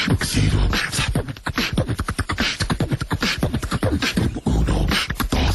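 Fast beatboxing: a voice making a rapid run of percussive mouth sounds, clicks and hissing strokes over deep kick-like thuds.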